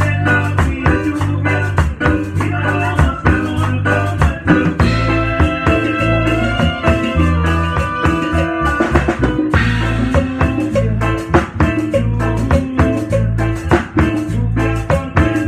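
Live band playing an instrumental passage: drum kit keeping a steady beat over a heavy bass line, with held melodic notes from the other instruments.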